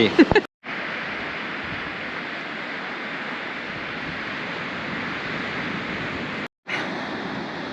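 Ocean surf breaking and washing up the beach, a steady rush of noise that cuts off abruptly twice, near the start and near the end.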